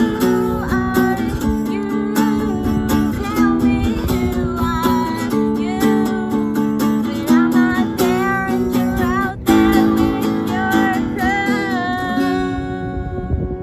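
Acoustic guitars strumming the closing bars of an acoustic rock song, with a wavering sung melody over the chords. The last chord rings out and fades near the end.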